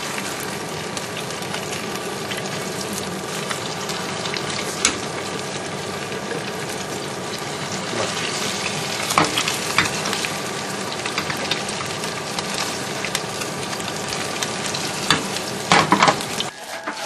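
Tteokgalbi (Korean minced beef patties) sizzling steadily as they shallow-fry in plenty of oil in a nonstick frying pan, with occasional sharp pops and a few louder clicks near the end.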